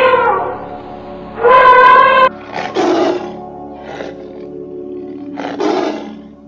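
An elephant trumpets once, a brassy call that rises briefly at its start, then a tiger roars: two loud roars with a fainter one between, over a steady music bed.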